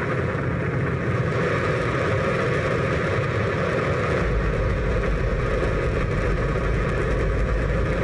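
Hydrogen-oxygen rocket engine firing on a test stand: a loud, steady rush of noise. The deepest rumble grows stronger about halfway through.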